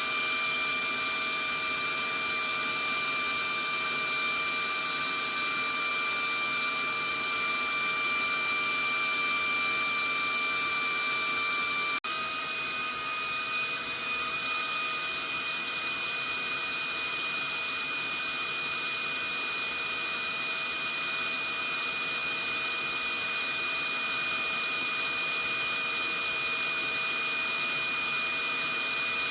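Vacuum cleaner running steadily: an even rushing hiss with a high motor whine. About twelve seconds in there is a momentary break, after which the whine sits slightly higher and the sound is a little louder.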